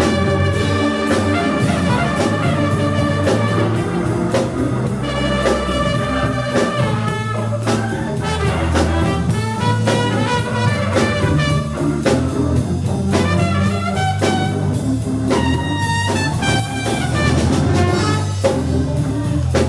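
Live band playing an instrumental jazz number: a lead horn melody of held notes over bass and a drum kit keeping a steady beat.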